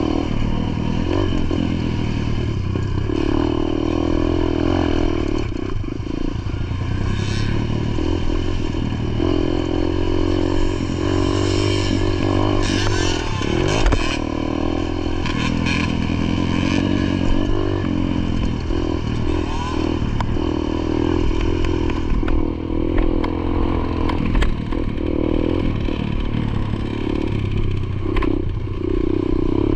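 Dirt bike engine running under load, its pitch rising and falling over and over with throttle and gear changes.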